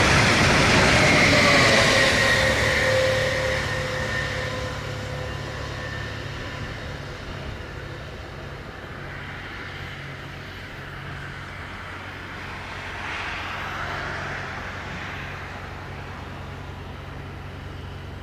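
Electric train passing and pulling away, its traction-motor whine dropping slightly in pitch as the rumble fades over several seconds. After that a steady low hum remains, with a softer swell of passing traffic noise near the end.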